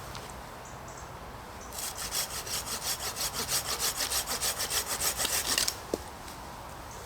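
Hand saw cutting through wood in quick, even strokes, starting about two seconds in and stopping near six seconds, followed by a single knock.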